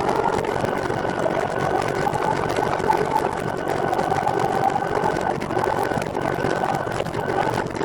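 Recumbent trike rolling along: a steady whirring of tyres and drivetrain, with a thin high whine held throughout.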